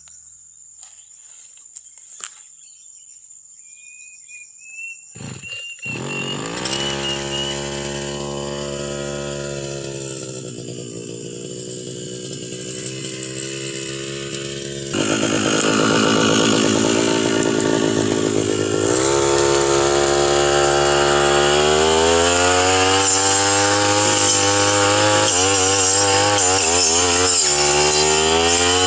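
A brush cutter's small engine comes on about six seconds in and runs at part throttle. About fifteen seconds in it opens up to full throttle, and its pitch wavers and dips as it works, as when cutting through brush.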